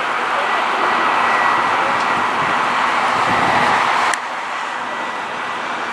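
Jet airliner engines running, a loud steady rush with a thin high whine over it, dropping suddenly to a lower level about four seconds in.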